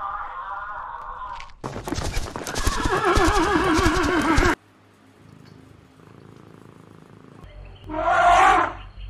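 Whinnying calls of a horse-like animal: a shorter call, then a loud call of about three seconds with a quickly wavering pitch that cuts off abruptly, and after a few seconds of quiet another short loud call near the end.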